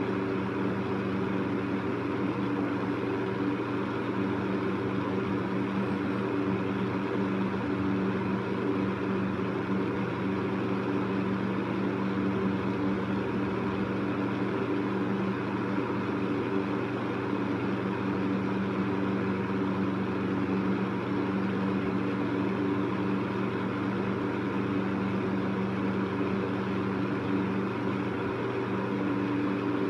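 Electric fan running steadily: a constant hum from the motor under an even whoosh of moving air.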